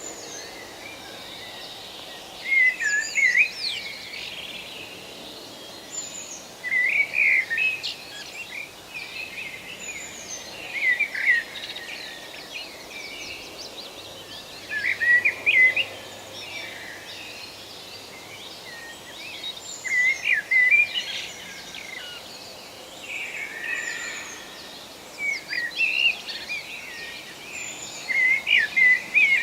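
A songbird singing short warbled phrases every three to four seconds, each opening with a thin high note, over a soft steady forest background hiss.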